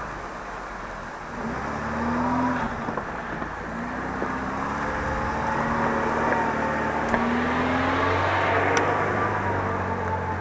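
Off-road 4x4's engine revving under load, its pitch rising several times over a steady rushing noise.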